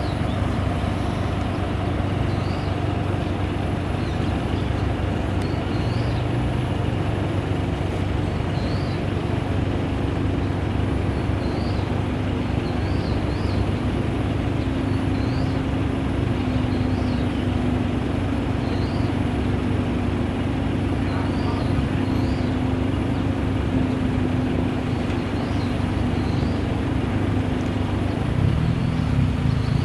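A car engine idling steadily, running at an even, unchanging speed.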